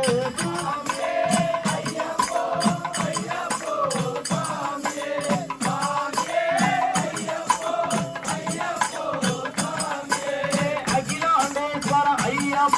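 Ayyappa devotional bhajan music: a wavering melody over steady drum beats and rattling percussion.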